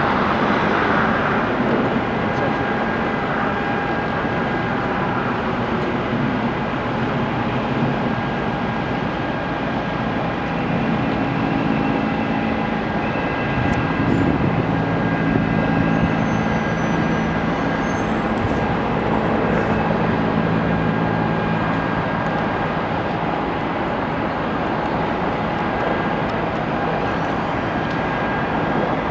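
Steady drone of aircraft engines with a constant high whine; a lower engine hum grows louder in the middle and then fades.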